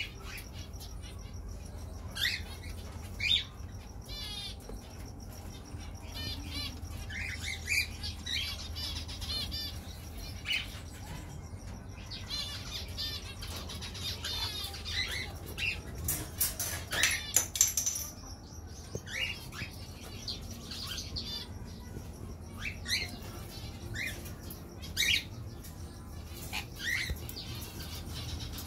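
Small aviary birds chirping and twittering, with quick trilled runs of notes, over a steady low hum. A cluster of sharp rustling knocks comes about halfway through and is the loudest part.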